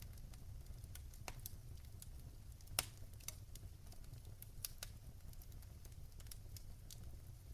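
Wood fire crackling in a fireplace: scattered sharp pops and snaps over a low, steady rumble of the flames, with one louder pop a little under three seconds in.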